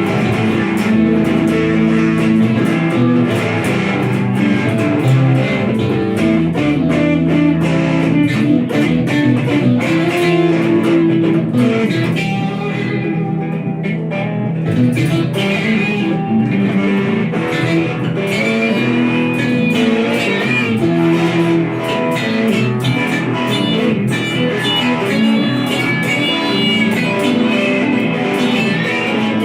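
Electric guitar playing an improvised blues-rock jam, with continuous melodic lines over a steady accompaniment.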